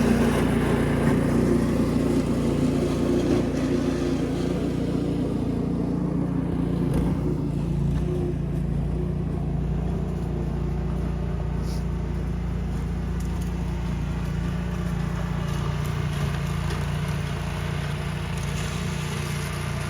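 Gas snowblower engine running steadily.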